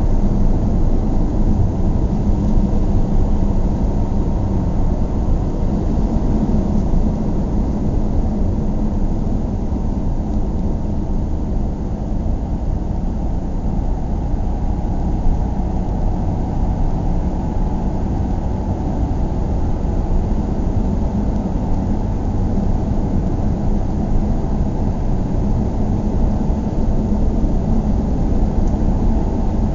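A vehicle running steadily: a continuous low rumble with a steady hum.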